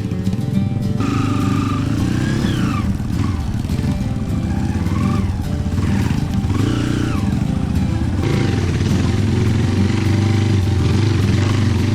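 Trail motorcycle engine running and revving up and down several times as the bike is ridden.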